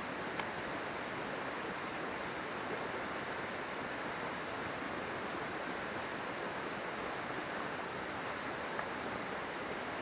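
River water rushing steadily, with two faint pops from a wood campfire, one just after the start and one near the end.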